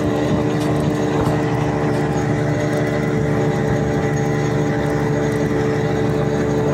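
A steady engine drone running at constant speed, holding one pitch.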